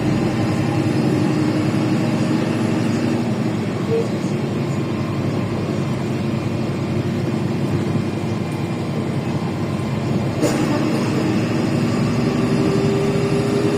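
Cabin noise of a LiAZ 5292.65 city bus under way: the Yuchai diesel engine and drivetrain hum steadily while the deep rumble eases off for a stretch. There is a single sharp knock about ten seconds in. Near the end the rumble returns with a slowly rising whine as the bus pulls again.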